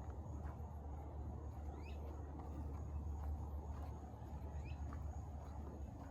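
Outdoor ambience with a steady low rumble. Over it a bird repeats a short rising call about every two seconds, and a thin high steady tone is heard, typical of an insect.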